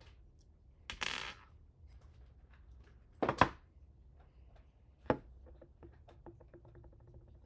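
Small hard parts and tools being handled during hand assembly: a brief scraping rustle, then a couple of sharp knocks, a single click, and a run of light ticks.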